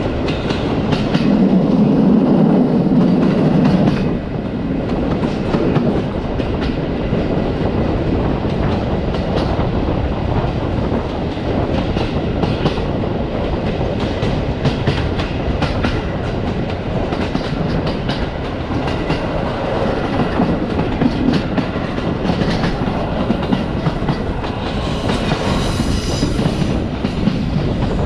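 Passenger train carriage running along the track, its wheels clattering and knocking over rail joints in an irregular run of clicks over a steady rumble. The rumble is louder for the first few seconds, and a brief high hiss rises near the end.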